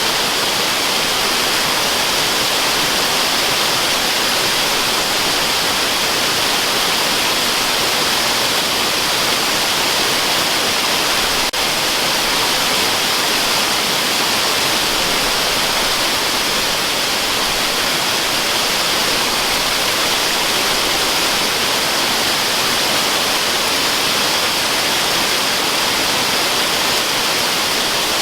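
Waterfall rushing as a steady, even hiss, heavier in the higher range than in the low, used as white noise. A brief click and dip in level comes about eleven seconds in.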